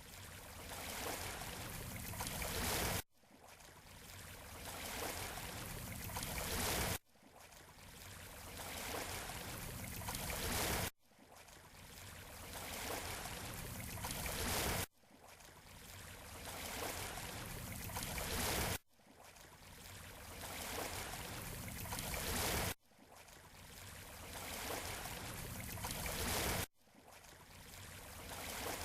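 Ocean surf washing on a beach shore: a rushing wash of water that swells over about four seconds and then cuts off abruptly, repeating the same way about every four seconds.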